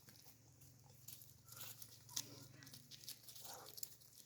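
Near silence: a low steady hum with faint scattered clicks and rustles.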